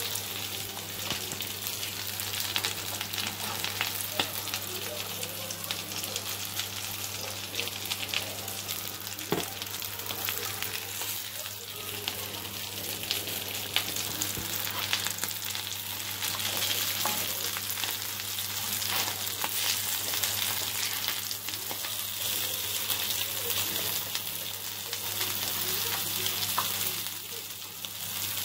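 Potato tikkis dipped in egg sizzling and crackling in shallow oil on a flat iron tawa. Now and then a spatula clicks and scrapes as they are lifted off, over a steady low hum.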